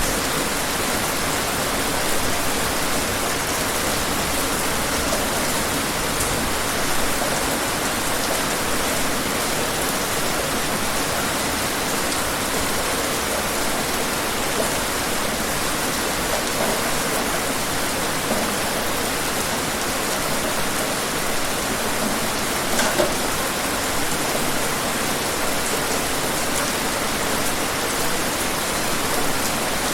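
Steady heavy rain falling on a surface, a dense even hiss with occasional louder individual drops.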